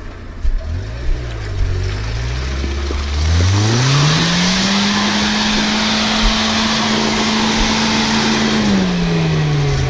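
Off-road 4x4's engine revved hard under load, pulling up to high revs about three seconds in, held there for several seconds with a rushing noise, then let back down near the end: an attempt to drive the stuck vehicle over a hump with momentum. A few knocks come before the revving starts.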